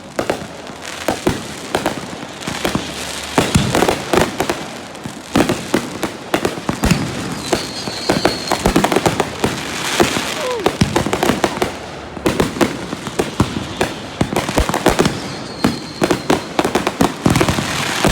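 A fireworks display going off in a rapid, continuous barrage of aerial shell bangs and crackling, with a high thin whistle heard twice in the second half.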